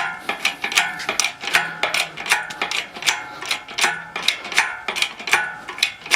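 Hand-pumped hydraulic jack being worked, giving a steady run of metallic clicks with a short ring, about two and a half a second.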